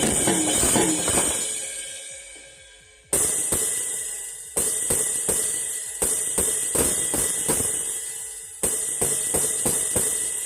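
Drum and cymbal struck irregularly, about once every half second to a second and a half. Each hit leaves a bright, ringing shimmer that fades slowly. A child's voice trails off in the first second.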